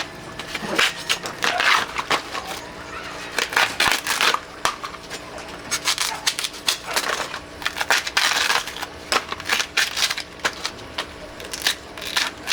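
Irregular crunching and clicking, a quick uneven run of sharp sounds.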